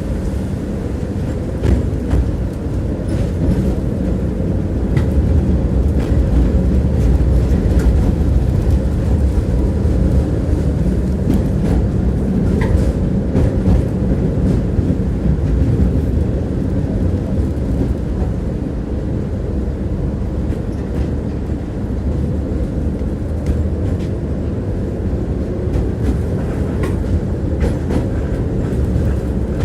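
Electric tram running along the track, heard from inside the car: a steady low rumble of wheels on rail, with an occasional click of the wheels knocking over rail joints.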